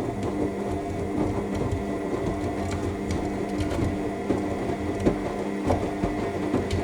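AEG 7000 Series washing machine tumbling its drum in the main wash: a steady motor hum with a few held tones over the churn of wet laundry and water, with occasional soft knocks.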